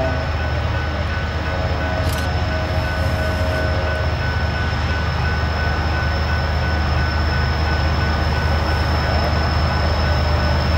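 Train rolling past: a steady rumble of wheels on the rails, with a thin high ringing tone over it.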